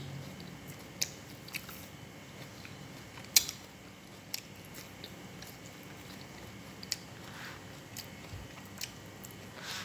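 A person chewing ripe jackfruit flesh, with scattered short clicks and smacks, the loudest about three and a half seconds in.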